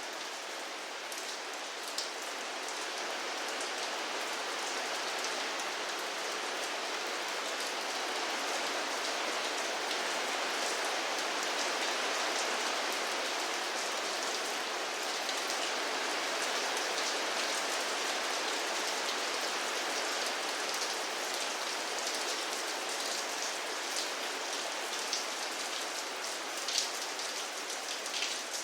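Steady rain falling, a dense even hiss with individual drops ticking against a surface, the separate drop hits more distinct near the end.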